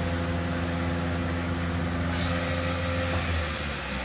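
A machine running with a steady low hum. A hiss like escaping air starts suddenly about two seconds in, and the hum drops away near the end.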